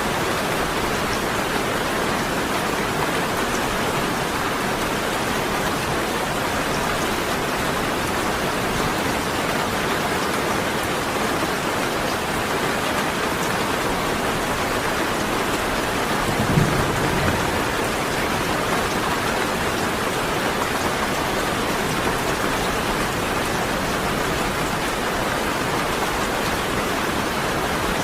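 Steady heavy rain falling, an even hiss that does not change. About two-thirds of the way through comes one brief low rumble.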